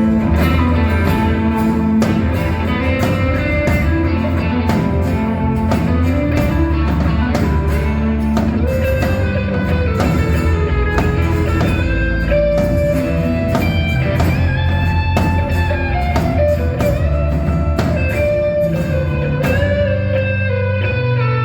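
A band playing an instrumental passage: guitar carrying the melody over bass and a steady drum beat.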